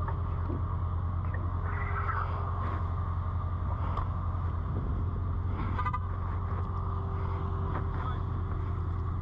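Supercharged V8 of a parked sports car idling steadily, a continuous low rumble.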